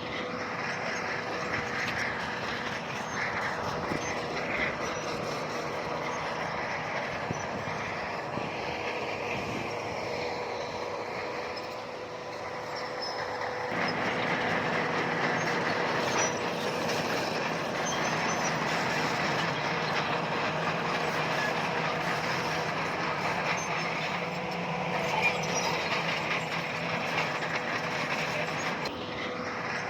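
Bulldozer's diesel engine running under load with its steel tracks clanking and squealing. It eases off briefly and comes back louder about halfway through.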